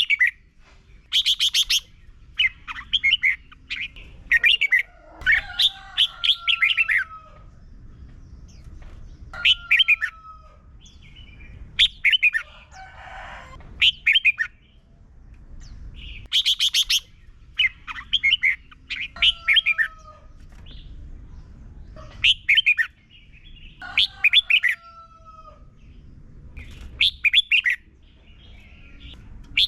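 Red-whiskered bulbul singing: short, loud phrases of quick, bright whistled notes, repeated every two to three seconds, some ending in a slurred lower note.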